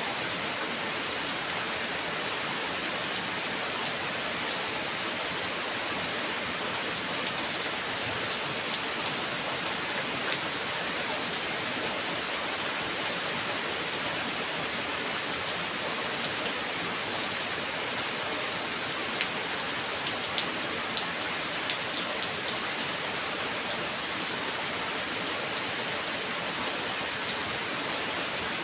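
Heavy rain falling steadily, a dense even hiss of drops with scattered sharper drop ticks now and then.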